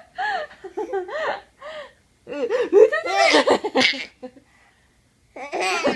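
A small child laughing in high-pitched bursts, rising to a long, loud peal of laughter about two seconds in, with a short pause before more laughter near the end.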